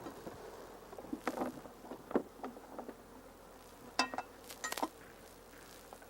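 Honeybees buzzing around their exposed comb, with a string of sharp clicks and knocks, several of them ringing briefly, loudest about four seconds in.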